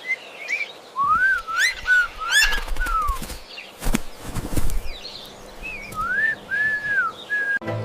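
A bird giving clear, whistled calls: a run of short, arching notes about a second in, and another near the end, with a few knocks or rustles in between.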